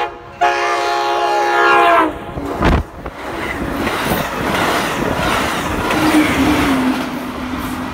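Amtrak Pacific Surfliner passenger train sounding its horn in a long chord that cuts off about two seconds in, with a brief break right at the start. A sharp thump follows as the front of the train reaches the platform, then the train rushes past close by with a dense roar of wind and wheels and a low steady hum near the end.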